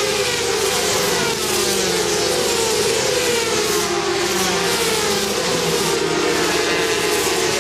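Several SuperSport 400 racing motorcycles running hard at high revs, their overlapping engine notes sliding in pitch as they shift gear and pass.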